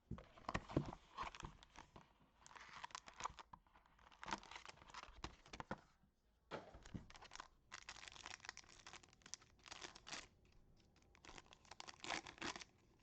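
Wrapper packaging of a trading card box torn open and crinkled by hand, in irregular crackly bursts with short pauses.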